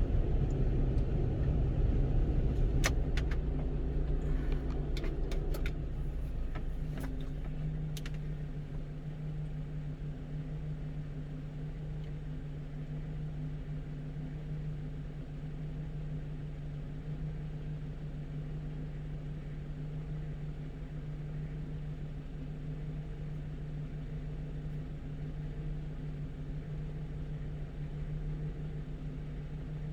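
A 1-ton truck's engine and road noise heard from inside the cab: a steady hum over low rumble that eases off over the first several seconds and then holds even. A few light clicks or rattles come early in that stretch.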